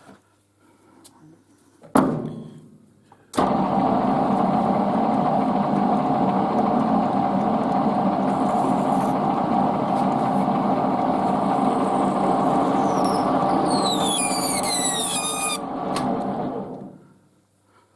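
A metal lathe is switched on with a sharp knock just before. Its motor and gearing run loud and steady, with a few short, high, falling squeals from the cut near the end, and then it winds down.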